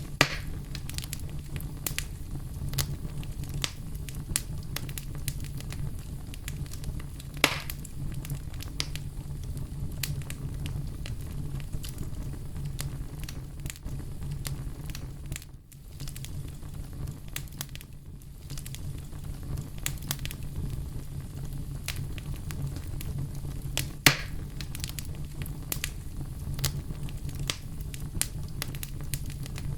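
Campfire burning: a steady low rumble with constant small crackles and a few sharper pops, the loudest near the start, about a quarter of the way in, past three-quarters and at the very end.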